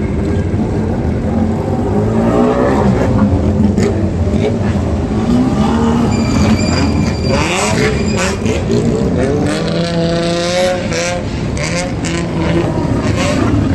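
Car engines revving and accelerating away one after another, their pitch repeatedly rising and falling, with short crackles in the second half.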